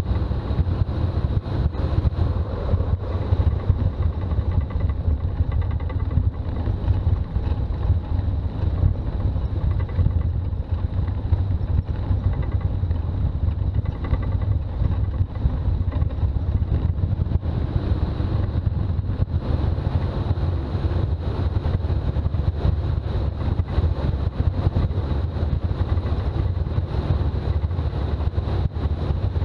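Toyota BJ40 Land Cruiser driving steadily, its engine and road noise a constant low drone.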